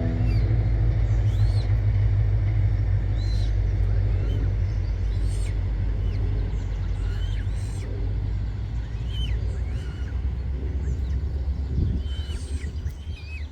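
A steady low rumble with many short, high bird chirps scattered over it.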